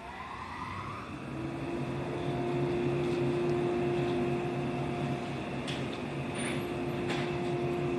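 Shinano Railway 115 series electric train at the platform: a whine rises in pitch over the first second, then settles into a steady electrical hum that slowly grows louder, with a few sharp clicks in the second half.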